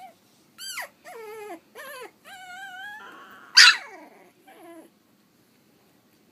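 3½-week-old Pug–Dachshund mix puppy whimpering: about six short cries that bend up and down in pitch, the loudest a sharp squeal about three and a half seconds in.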